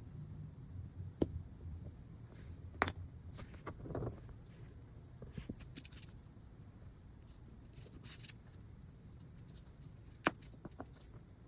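Scattered sharp clicks, light taps and rustling as small metal accordion reed plates and hand tools are handled on a workbench, with three louder clicks spread through.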